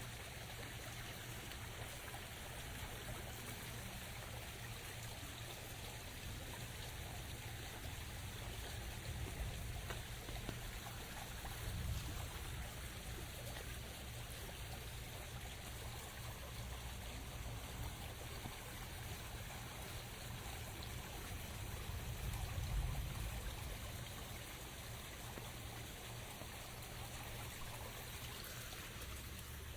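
Steady rain, with water trickling and running. A low rumble swells briefly twice, about twelve seconds in and again a little after twenty seconds.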